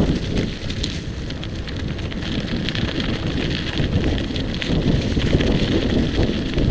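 Wind rumbling on the microphone of a camera riding along on a moving bicycle, with light crackling and ticking throughout.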